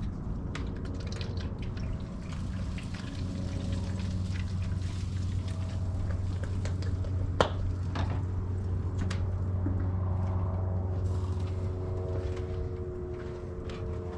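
Spray bottle spritzing liquid onto ribs in a smoker, with scattered sharp clicks over a steady low hum.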